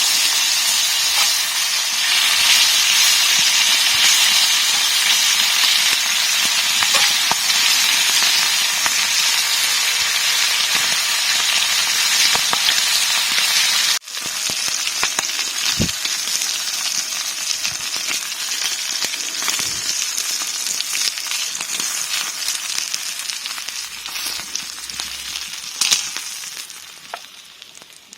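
Food frying in a pan over a campfire: a loud, steady sizzle with scattered small pops, fading away near the end.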